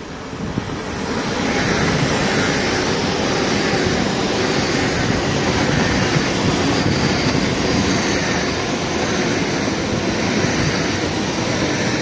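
A Hull Trains Class 802 express passing through the station at speed without stopping. The rushing noise of wheels on rails rises quickly about a second in, then holds steady as the long train goes by.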